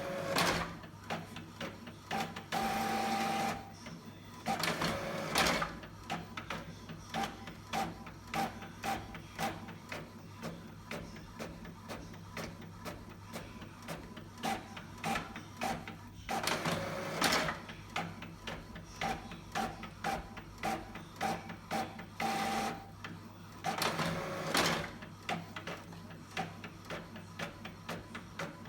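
A printer working through a print job: loud whirring spells of paper feed alternate with long runs of rapid clicking from the print mechanism. The cycle repeats about halfway through, over a steady low hum.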